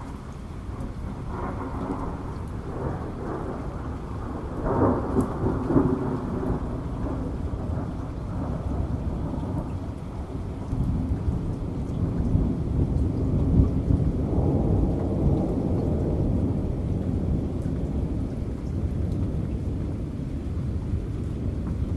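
Rolling thunder rumbling over steady heavy rain. The rumble swells loudest about five seconds in and again about halfway through, with scattered drop ticks on top.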